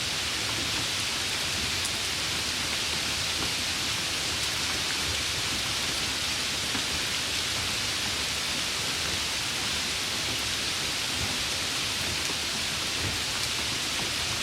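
Steady rain falling: an even, unbroken hiss weighted toward the high end, with a few faint drop ticks.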